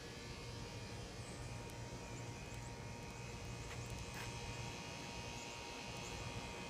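Faint steady low hum with a couple of thin steady tones above it: background noise, with no distinct event.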